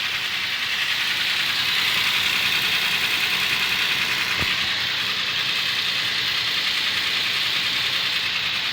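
Toyota Tacoma pickup engine idling cold during warm-up, with a fast, steady ticking over the running. The owner takes this noise for a defective engine, though the dealer calls it within spec.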